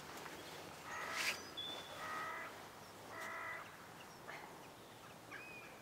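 A bird calling three times, each call about half a second long and about a second apart. A short knock comes just after the first call, and there are a few faint high chirps.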